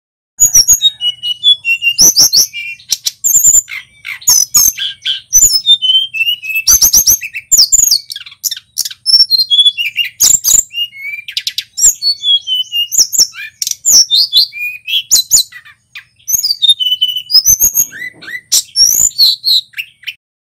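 Male tledekan gunung singing a fast, varied song of high whistles, rising and falling chirps and sharp clicking notes, in bursts with brief pauses, over a faint low hum.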